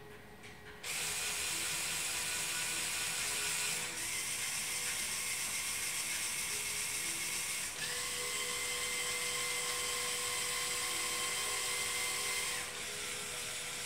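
LEGO NXT servo motors whirring as they drive the excavator's plastic Technic gear trains, starting about a second in and running steadily, shifting in tone three times as different motions take over.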